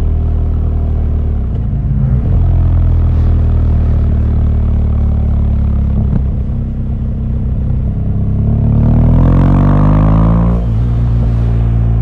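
BMW R1200GS flat-twin engine running under way. About two-thirds of the way in it revs up, rising in pitch, then drops suddenly near the end.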